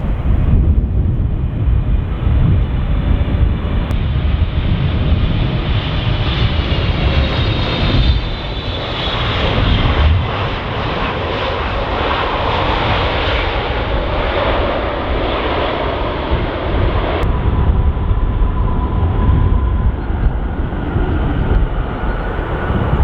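Boeing 777-300ER's GE90 jet engines passing on landing: a jet whine that swells about six seconds in, peaks through the middle, and fades over the last few seconds. Heavy wind rumble on the microphone underneath.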